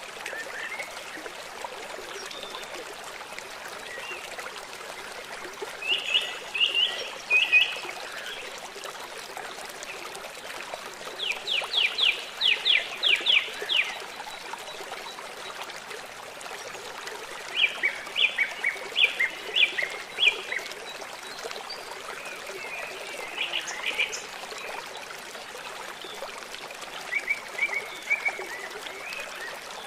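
River water running steadily, with a songbird singing short phrases of rapid high notes every few seconds, about five times.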